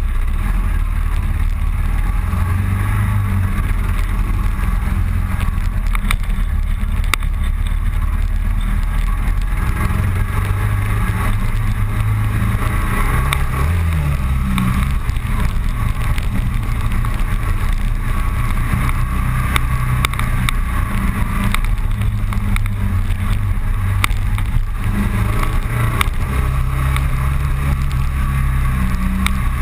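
Motorcycle engine running under way, its low hum stepping up and down in pitch as the speed changes, with steady wind and road noise over it.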